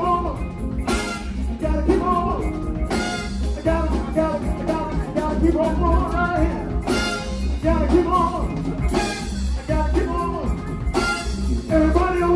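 Live band playing an upbeat rock song: drum kit with regular cymbal crashes about every two seconds over a steady bass line and a wavering melodic lead.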